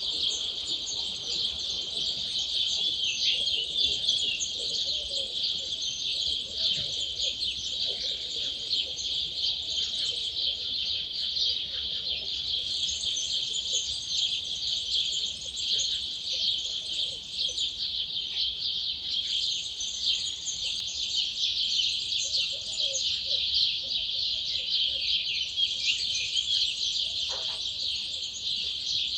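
Dawn chorus: many wild birds singing at once, a dense unbroken mass of quick high chirps and trills, with fainter lower calls underneath.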